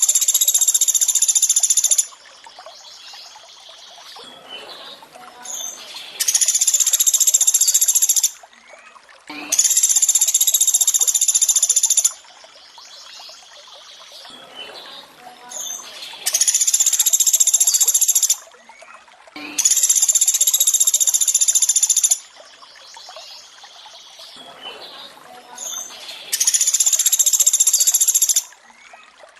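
Looped recording of the pelatuk beras bird's high, rapid 'tembakan' call. Each call lasts about two seconds, the calls come in pairs about ten seconds apart with a softer, lower call between pairs, and a faint water sound runs underneath.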